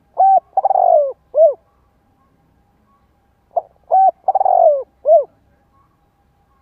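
Spotted dove cooing: two phrases of about four notes each, the third note longer and falling in pitch, about three and a half seconds apart.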